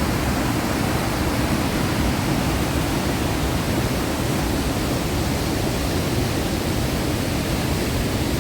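Waterfall and river rapids rushing: a steady, unbroken wash of falling water.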